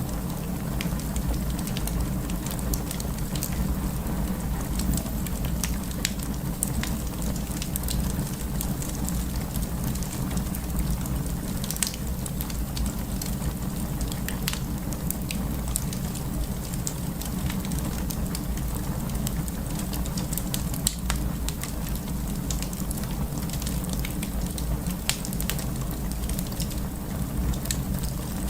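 Burning firewood in a fireplace: a dense, irregular stream of small crackles and pops over a steady low rumble.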